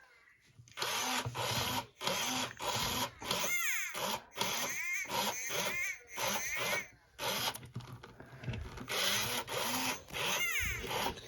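Furby toys making their electronic chatter: a quick run of short noisy bursts mixed with gliding, squeaky pitched calls that rise and fall.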